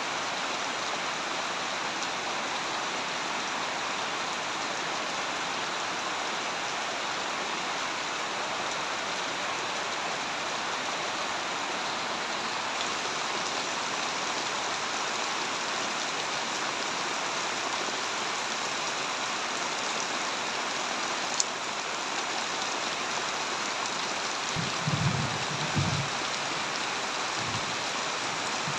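Heavy rain falling steadily, an even hiss of many drops. There is one sharp tick about three-quarters of the way through, and a few short low thuds near the end.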